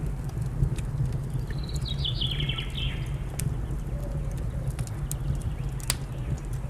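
Wood fire crackling with scattered sharp pops over a steady low rumble. About a second and a half in, a bird gives a short run of quick chirps stepping down in pitch.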